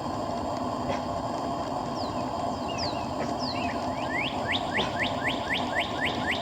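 A songbird singing: a few high notes sliding down in pitch, then a fast run of rising whistled notes, about four a second, from about four seconds in. A steady low hum runs underneath.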